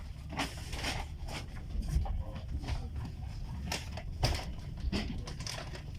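Inside a passenger railway sleeper carriage: a steady low rumble with scattered, irregular knocks and rustling clicks.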